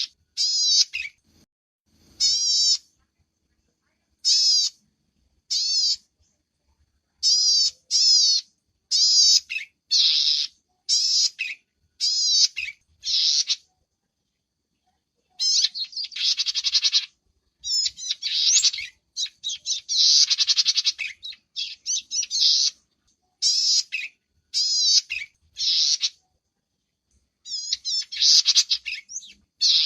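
High-pitched calls of small songbirds of the kinds kept in Indonesia as cici padi, cici meong and salome: short chirping phrases repeated about once a second, with a brief pause and then longer buzzy, trilling phrases in the middle.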